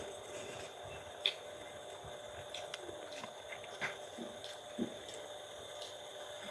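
Quiet eating sounds, chewing a mouthful of rice and soup, with a few soft clicks over a faint steady hum.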